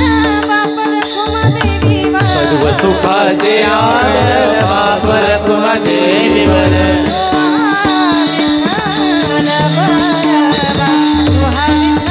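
Devotional kirtan music. A voice sings sliding melodic turns without clear words over a steady held drone, with hand-drum strokes and small cymbals or rattles keeping the rhythm.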